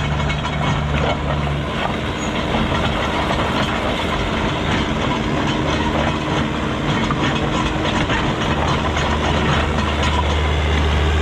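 Heavy diesel machinery running steadily under load, its low engine hum mixed with continuous metallic rattling and clanking.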